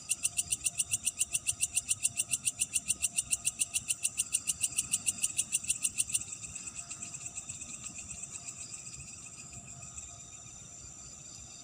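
Night animal chorus: one caller gives a loud, rapid pulsing call of about nine pulses a second that stops abruptly about six seconds in, over a fainter steady high trill from other callers.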